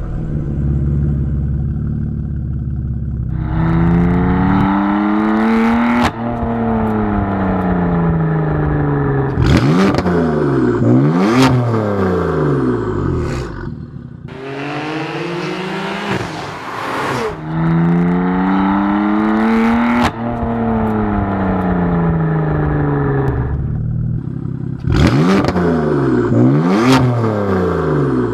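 BMW M4 GTS's twin-turbo 3.0-litre inline-six idling, then revved through its exhaust: slow climbs in pitch that fall back, alternating with quick sharp throttle blips, repeated twice.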